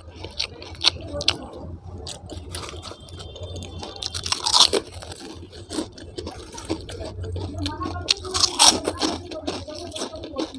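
A person chewing and eating close to the microphone, with crunching and mouth sounds and many small clicks, and two louder crunches about four and a half and eight and a half seconds in.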